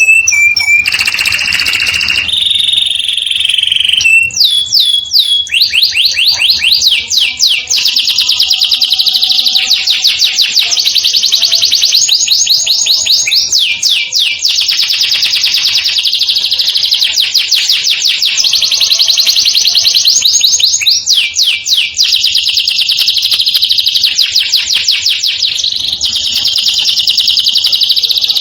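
Domestic canary singing a continuous rolling song of fast trills, each a rapid run of repeated high notes, switching to a new trill every second or two.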